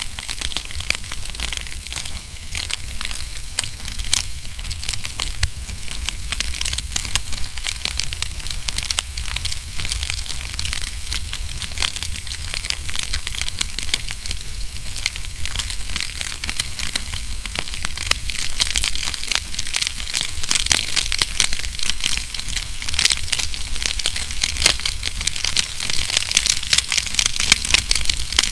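Wood fire crackling in a fireplace: a dense, continuous stream of small snaps and pops over a steady low rumble, growing busier and louder over the last several seconds.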